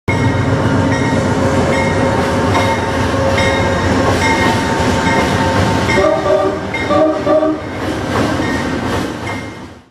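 Train crossing a steel truss bridge, wheels clacking over rail joints in a steady rhythm under a loud rumble. Two short horn blasts come about six and seven seconds in, and the sound fades out near the end.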